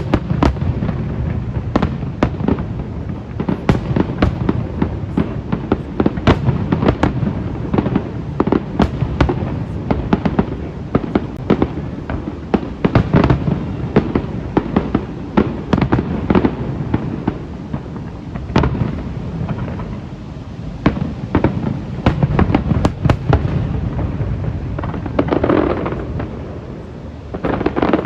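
Aerial fireworks display: a rapid, continuous barrage of shell bursts, sharp cracks and crackles over a steady low rumble of booms, with a whistling shell rising near the end.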